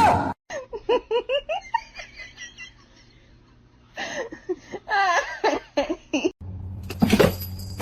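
A person giggling in quick, high-pitched bursts, in two runs with a short pause between, then a brief rushing noise near the end.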